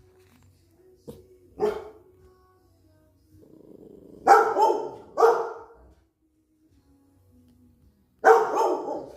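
Dogs barking on alert: single sharp barks about a second and a half in, two in quick succession around the middle, and one more near the end, with a low rumble just before the middle pair.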